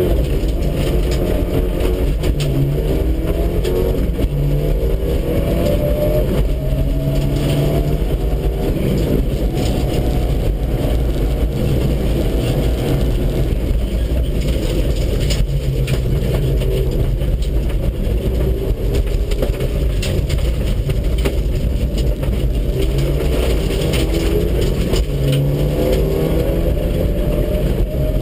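Mitsubishi Lancer Evolution VII rally car's turbocharged 2.0-litre four-cylinder engine pulling hard through the gears, revs climbing and dropping back at each shift, over a constant low rumble.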